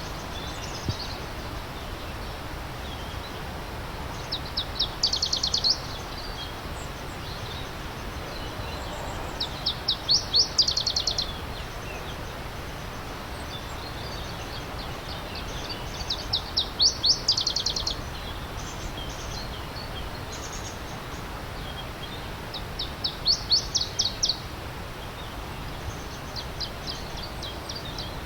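A songbird repeats the same short phrase of rapid high notes, a burst of about ten quick notes roughly every six seconds, the last one fainter. Under it runs the steady rush of a stream.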